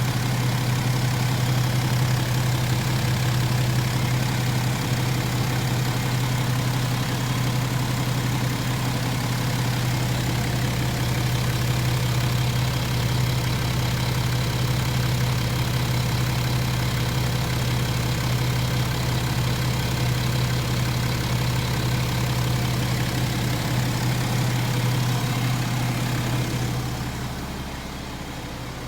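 BMW N57D30 3.0-litre straight-six turbodiesel engine running steadily, with the slight "tuk tuk tuk" tapping the owner hears when revs are held; the owner is unsure whether this is a fault or the engine's normal sound. Near the end it becomes quieter.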